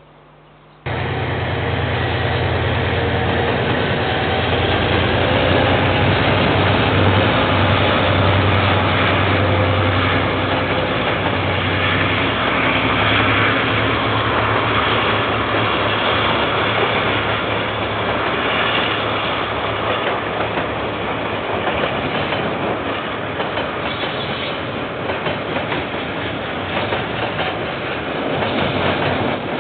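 KiwiRail diesel train passing close by, starting abruptly about a second in. The locomotive's low engine drone is strongest in the first half, then gives way to the steady rolling noise of the wagons on the rails.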